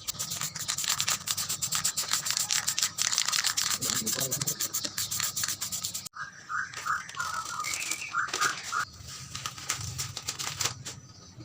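Dense, rapid scratchy rubbing for about six seconds, then an abrupt cut to a few short tonal notes and quieter, intermittent scraping.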